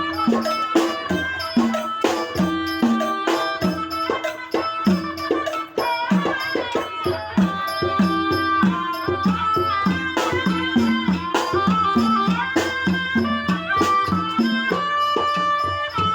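Southern Thai Nora (Manora) ensemble music: quick, steady drum strokes that each drop in pitch, a steady held tone, a melody line above, and sharp clicking percussion.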